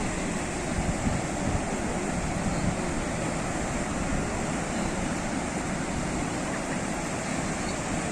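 Sea surf washing onto the shore, a steady rush of breaking waves.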